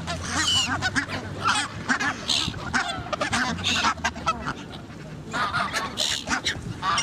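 A flock of geese honking, with gulls calling among them: many short, overlapping calls, some of them high and squealing.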